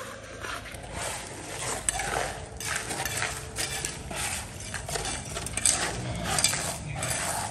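Irregular clinking and scraping of hard objects, a short stroke about every half second.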